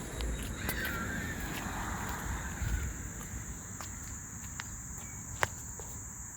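Outdoor summer ambience: a steady high insect drone, with a short bird call about a second in and a sharp click about five seconds in.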